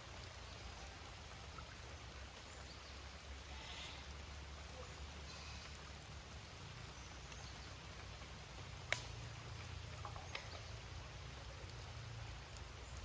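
Light rain falling in the forest over a steady low rumble, with one sharp click about nine seconds in.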